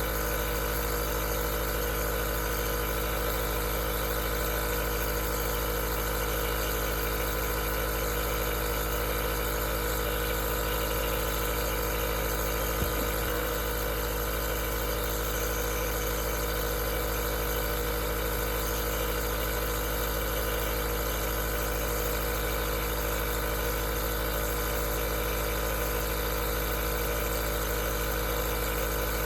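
Aerosol nebulizer's compressor running steadily: a constant hum made of many steady tones over an even hiss. A single brief click about thirteen seconds in.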